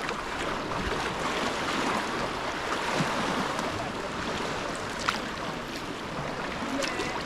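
Sea water splashing and lapping around a sea kayak under paddle, a steady wash of water noise. There is a brief sharp knock about five seconds in.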